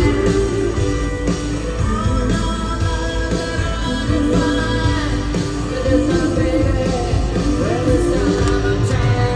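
Live rock band playing, with a woman singing lead over guitars, bass and drums.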